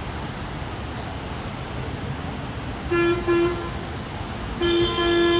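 Vehicle horn honking: two short toots about three seconds in, then a longer honk with a brief break near the end, over a steady background hiss.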